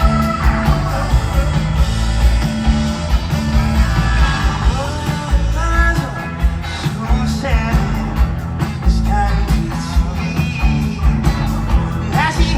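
Live band music with a steady, heavy bass-and-drum beat and guitar.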